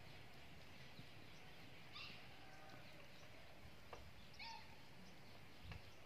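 Near silence: faint steady outdoor background with a few faint, brief bird chirps, about two seconds in and again a little past four seconds.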